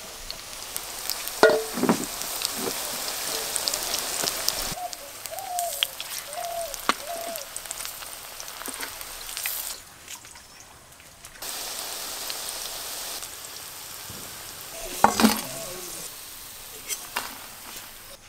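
Battered banana-flower fritters sizzling in hot mustard oil in a wok, a hissing sizzle that comes and goes in stretches, with a few knocks of a utensil against the pan.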